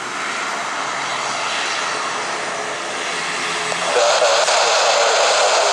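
ATR 72-600 turboprop's engines and propellers running steadily, growing louder about four seconds in.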